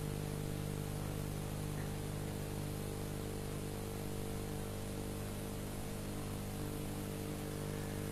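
Steady electrical mains hum with a stack of constant low tones and an even hiss, from the amplified sound system or recording chain.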